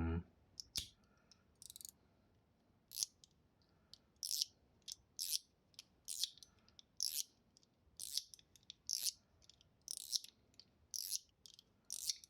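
Spring-and-ball mechanical fidget slider being slid back and forth by hand. Each stroke gives a short, crisp, high-pitched sliding click, roughly one a second.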